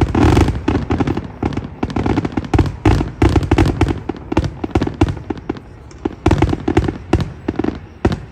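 Fireworks going off in a rapid, irregular string of sharp pops and crackles. The pops are dense and loud at first and come several a second after that, with a few louder cracks now and then.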